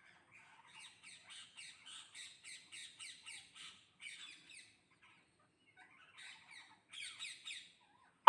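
Parrots squawking in a rapid string of short, repeated calls, about four a second, for a few seconds, then a shorter burst near the end.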